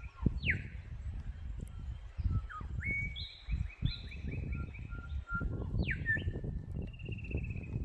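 Several birds calling at once: quick falling whistles twice, repeated trilled notes and a thin held tone, over loud irregular low rumbling noise like wind on the microphone.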